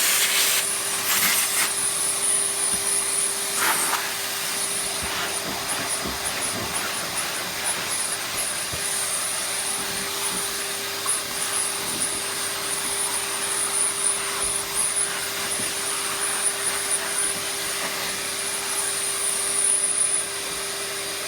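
Vacuum cleaner running steadily, sucking scraped-out muck and dust from a Dyson's parts, with a steady hum and a high whine over the rush of air. A couple of brief clatters in the first few seconds.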